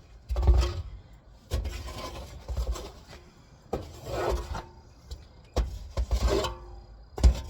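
Repeated scraping and rubbing in sawdust bedding in a truck bed, in separate strokes about one a second or so, each with a low thump.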